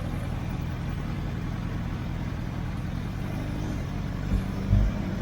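Motorcycle running on the road: a steady low engine and road rumble, with a few short low thumps near the end.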